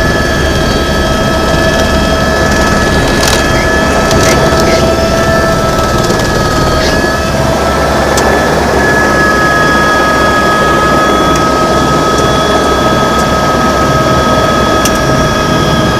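Helicopter cabin noise: steady, loud rotor and engine noise with a high turbine whine, the whine's pitch easing slightly lower near the end, with a few faint clicks.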